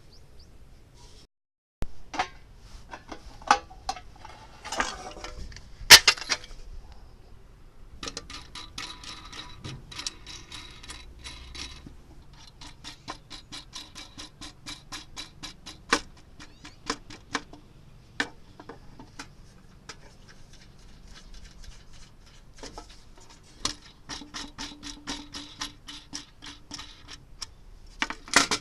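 Runs of rapid, evenly spaced mechanical clicking, about four to five clicks a second, after a few sharp knocks near the start.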